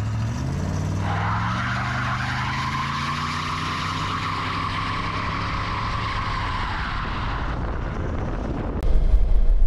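The 1967 Buick GS 340's V8 engine pulling under acceleration while driving, its pitch rising over the first few seconds and then holding steady, with a loud hiss-like band of road noise on top. A louder low rumble comes in near the end.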